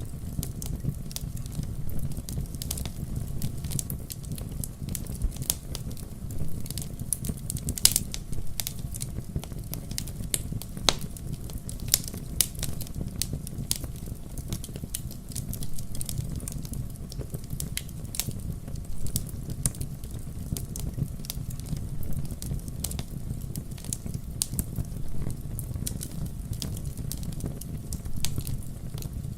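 Firewood burning, crackling with frequent irregular pops over a steady low rumble; one sharper pop about eight seconds in.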